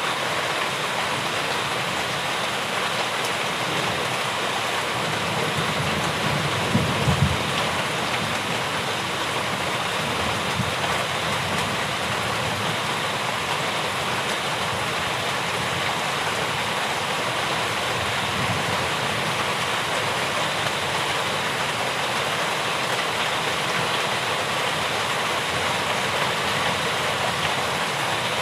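Steady rainfall, an even hiss. About a quarter of the way in comes a brief low rumble.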